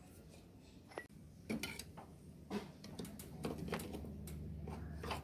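Scattered light metallic clinks and knocks of hand tools and small metal parts being handled during scooter front-wheel bearing work, with a low steady hum coming in near the end.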